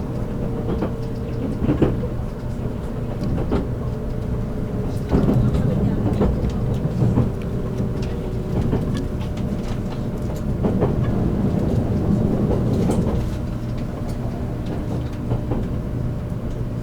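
Running sound inside the motor car of a JR Kyushu 783 series express train slowing for a station stop: steady low rumble, irregular wheel and rail clicks, and a thin motor tone that slowly falls in pitch.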